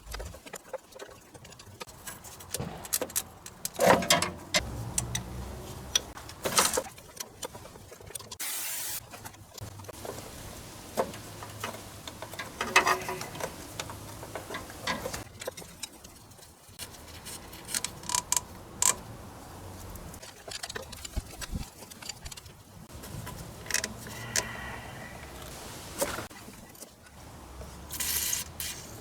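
Hand tools working on car suspension and underbody parts: irregular metal clinks and knocks with a few short squeaks.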